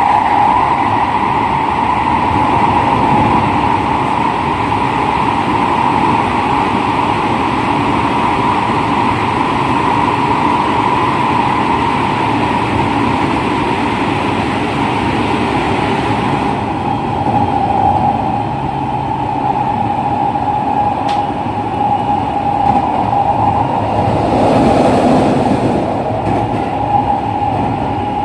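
JR West 207 series electric train running, its traction motors keeping up a steady whine that sinks slightly in pitch, over constant wheel and rail rumble. The higher hiss drops away about halfway through, and a brief swell of noise comes near the end.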